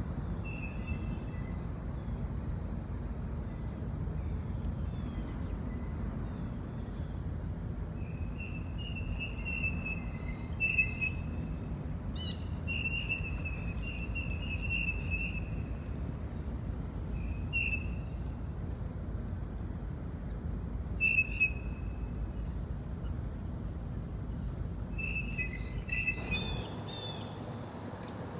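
Small birds chirping in short, repeated calls that come in clusters, over a steady low outdoor rumble and a steady high hiss. The background changes abruptly near the end.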